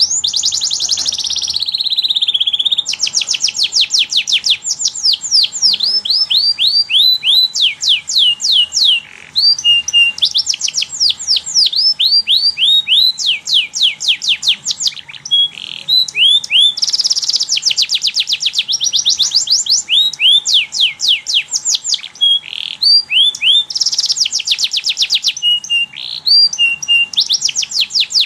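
Domestic canary singing loudly and almost without pause: fast trills of repeated high notes, many sweeping downward, in changing phrases with only brief breaks.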